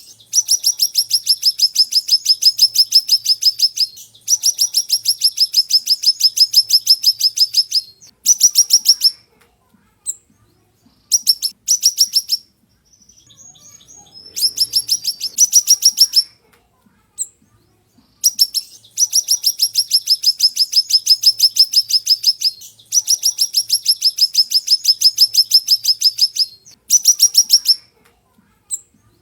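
Siri-siri songbird singing loud, high-pitched rapid trills of quick repeated notes. The trills come in phrases of about one to four seconds, separated by short pauses.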